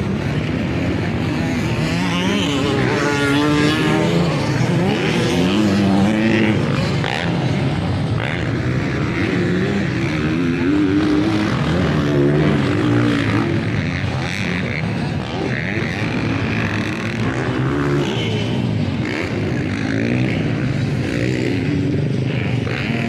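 Several motocross dirt bikes racing, their engines revving up and down over and over as the riders throttle and shift, with more than one bike heard at once.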